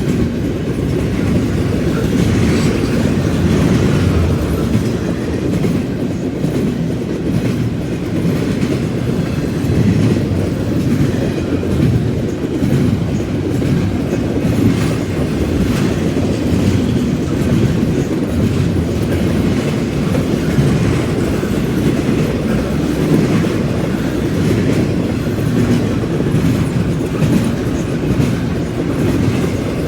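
Freight train cars rolling past in a steady, loud rumble, their wheels clacking over the track joints and the junction switch.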